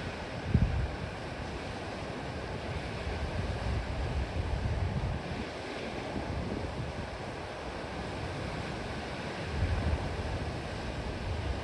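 Steady wash of ocean surf along the shore, with gusts of wind buffeting the microphone, the strongest about half a second in.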